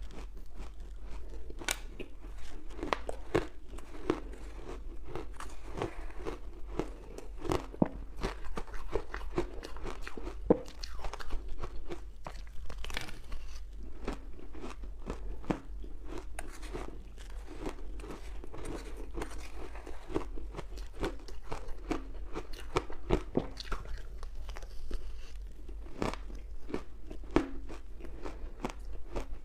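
Close-miked crunching and chewing of ice dusted with matcha powder: a continual run of sharp cracks as the ice is bitten and ground between the teeth.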